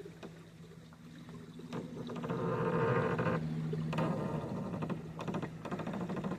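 Canoe under way on a river: a steady low hum, with water noise swelling about two seconds in and dropping off after about three and a half seconds.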